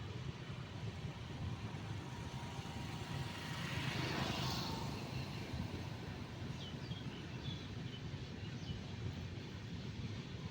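Steady low vehicle rumble, with one vehicle passing close and swelling loudest about four seconds in. A few faint, short high chirps follow in the second half.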